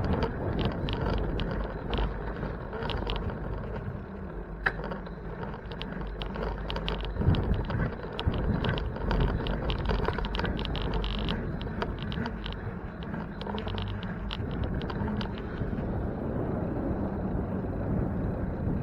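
Sounds of riding a bicycle: wind rushing over the microphone and a steady low road rumble, with many small rattling clicks and one sharper knock about seven seconds in.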